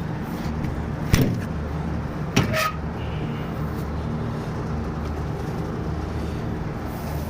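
Trane 25-ton packaged air-conditioning unit running with its fan going: a steady low hum. Two sharp knocks come through, about a second in and again about two and a half seconds in.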